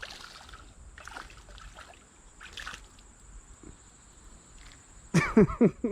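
Creek water trickling, with a few small splashes. A short, loud burst of voice near the end.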